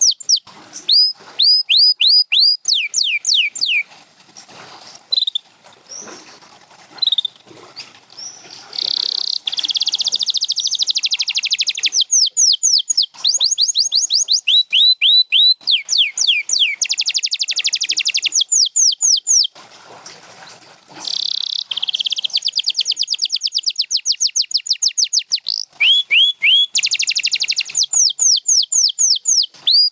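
Domestic canary singing: series of repeated quick falling whistled notes alternating with fast, dense rolling trills. There is a quieter pause of a few seconds after the first phrases and a shorter one later.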